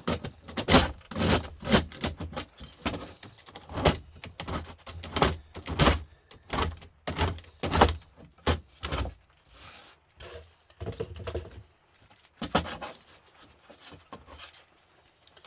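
Irregular metallic clinks, knocks and scrapes as a humidifier radiator's copper and aluminium scrap is pulled apart and handled. The clatter is dense for the first ten seconds or so, then thins to occasional knocks.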